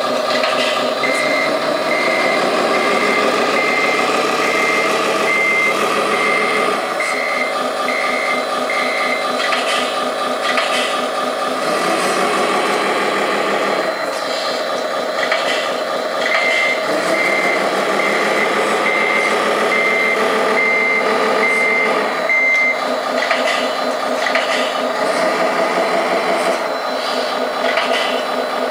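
Tamiya Scania 6x6 RC truck's sound unit playing a diesel engine that shifts in pitch several times, with a reversing beeper going about once every three-quarters of a second. The beeping runs for about eight seconds, stops, runs again for about six seconds in the second half, and starts once more near the end.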